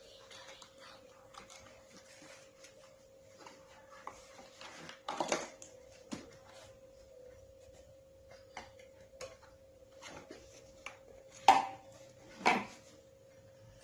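Plastic parts of a vacuum cleaner being handled: scattered light clicks and rattles, then two sharper knocks about a second apart near the end, over a faint steady hum.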